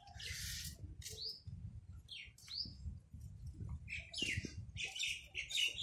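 Small birds chirping: scattered short calls with a couple of quick rising whistled notes, and a busier run of chirps near the end, over a low rumble.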